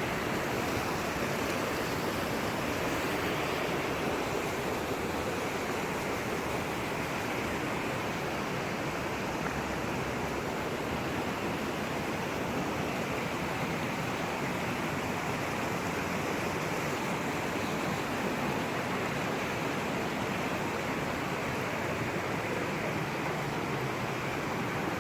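Steady rush of flowing water, a mountain stream or waterfall, holding an even level throughout.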